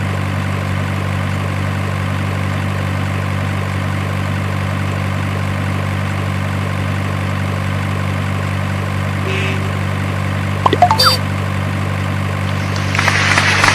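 Steady low idle of a heavy truck engine, unchanging in pitch, with a few sharp clicks about eleven seconds in. Louder music comes in near the end.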